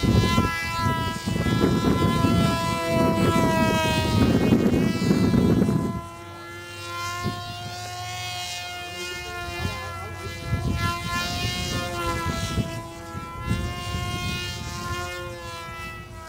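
Whine of the small Blue Wonder brushless electric motor and propeller on an RC flying wing in flight, drifting up and down in pitch. Wind buffets the microphone with a heavy rumble for the first six seconds or so.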